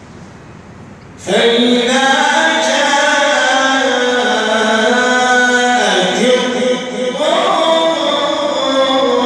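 Man reciting the Quran in a melodic chanting style: after about a second of quiet the voice starts one long held phrase, sustaining its notes and bending in pitch twice near the end.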